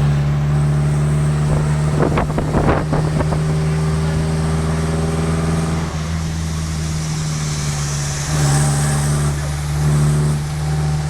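Motor vehicle engine running with a steady low hum, with a brief clatter of sharp sounds about two seconds in.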